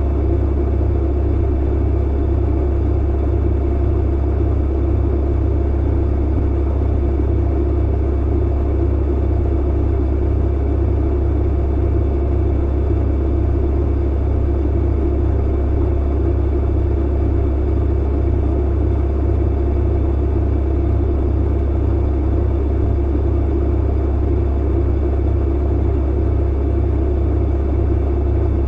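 Clothes dryer running: a steady, unchanging low hum from the motor and drum under an even rush of noise, with no separate knocks or tumbling thumps.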